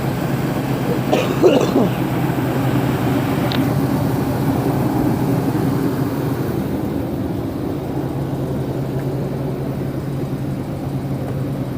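1978 GMC Vandura motorhome's engine idling steadily shortly after a cold start, fed from a jerry can straight to the fuel pump. A brief louder sound breaks in about a second in.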